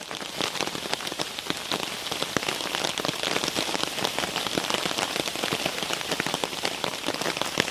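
Heavy rain falling on a tarp overhead: a steady, dense patter of individual drops hitting the fabric.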